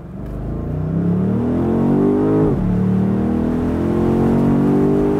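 BMW M850i's twin-turbo V8 accelerating hard. Its pitch climbs, drops sharply at a gear change about two and a half seconds in, then climbs again.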